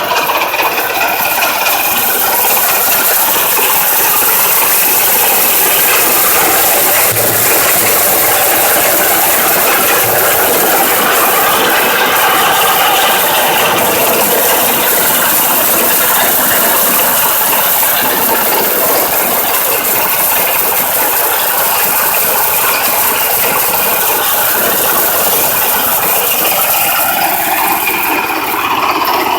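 MOROZ pumpkin-harvesting combine running with its 16 hp petrol engine: a loud, steady mechanical noise.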